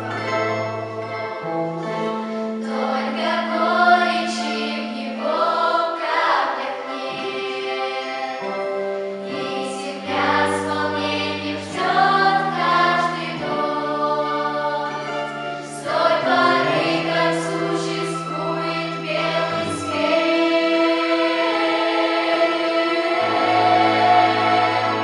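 Vocal ensemble singing a song together over instrumental accompaniment, with long held bass notes that change pitch every few seconds.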